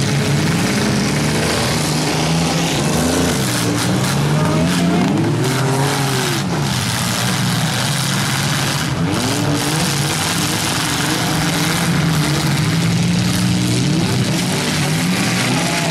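Several demolition derby cars' engines running hard and revving, their pitches rising and falling as the drivers accelerate and back off.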